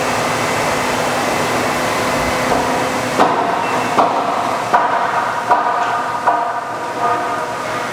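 Steady machine noise, then from about three seconds in a regular run of sharp knocks, roughly one every three-quarters of a second, each followed by a brief ringing tone.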